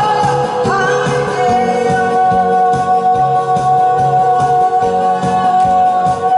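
Live amplified song: a singer slides up into a note about half a second in and holds it for about five seconds, over band backing with a steady drumbeat.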